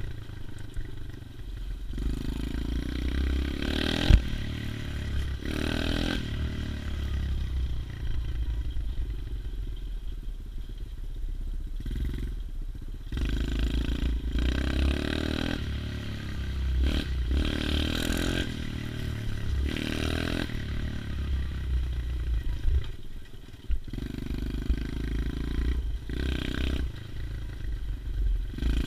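110cc pit bike's small four-stroke single-cylinder engine running while ridden, its revs rising and falling again and again as the throttle is opened and closed. A sharp knock comes about four seconds in.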